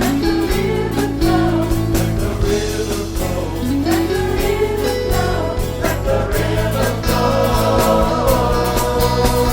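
Church choir singing a gospel song over band accompaniment with a steady beat.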